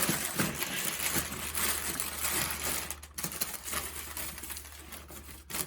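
Irregular light clicks and rattles of objects being handled, over a faint steady low hum that comes in about a second in.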